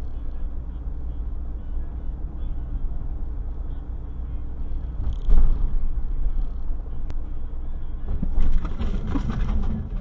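A car driving, with steady low road and engine rumble. There is a loud thump about five seconds in, and a rougher, noisier stretch near the end.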